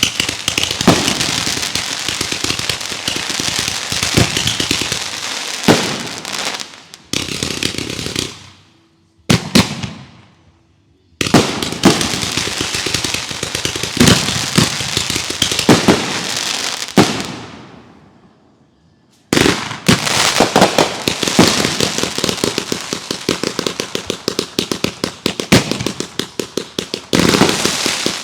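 Consumer fireworks going off in dense, rapid barrages of bangs and crackles: several long runs of quick reports, each lasting several seconds, separated by brief pauses.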